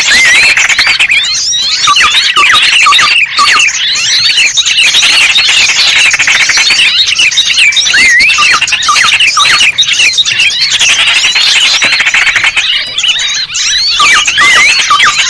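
A dense, unbroken chorus of many small songbirds: overlapping high, fast chirps, squeaks and trills from a small-bird lure recording played to attract small birds.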